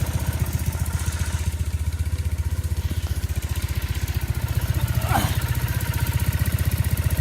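Triumph Bonneville parallel-twin engine idling steadily with an even, rapid low pulse, freshly refilled with oil and running for a leak check.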